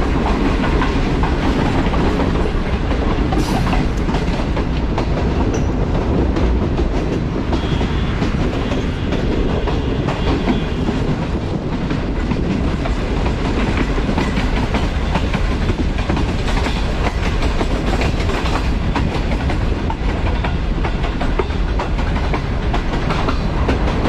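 Pakistan Railways Green Line Express passenger train running on the rails: a steady, loud rumble of wheels and coaches with faint scattered clicks.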